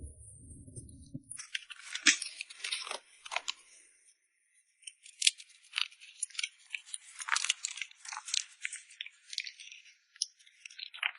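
A Corgi-mix dog chewing food with rapid, sharp crunches, pausing briefly about four seconds in before crunching again.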